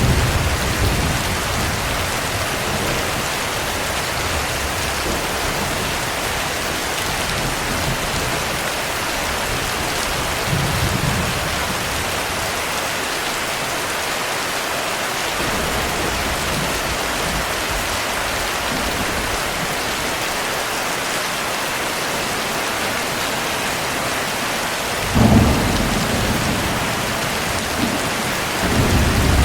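Steady heavy rain with low rumbles of thunder: a short one about ten seconds in, a louder one that starts suddenly near the end, and another just as it closes.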